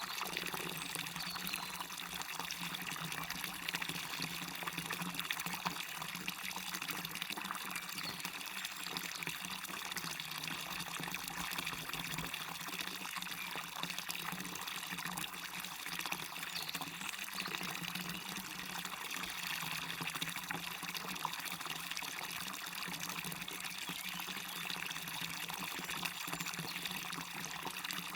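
Waterfall: a steady, even splashing rush of falling water, mostly in the upper range, with no pauses.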